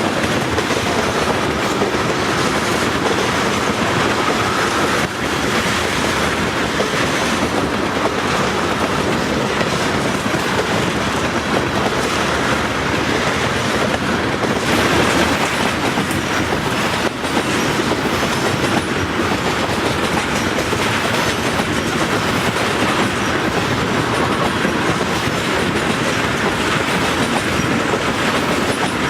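A train rolling past at trackside: a steady, loud rumble with the clatter of steel wheels over the rail joints.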